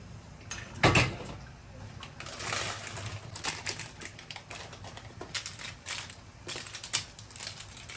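Kitchen handling sounds while preparing instant noodles: a sharp knock about a second in, then rustling and a scattered run of light clicks and taps.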